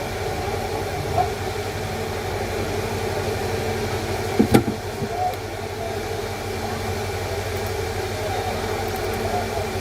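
Steady mechanical hum with a single sharp knock about four and a half seconds in.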